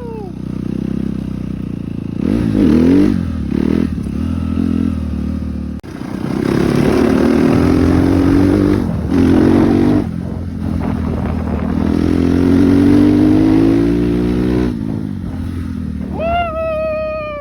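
Suzuki RM-Z250 four-stroke dirt bike engine revving and accelerating, its pitch climbing in several long pulls with drops between them as it is ridden. A short high squeal that falls in pitch sounds near the end.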